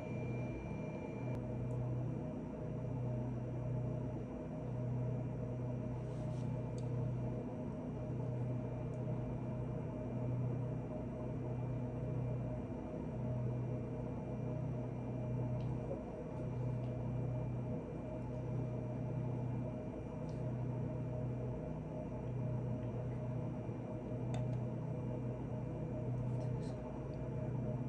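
A steady low machine hum that swells and fades about every two seconds, with a few faint clicks over it.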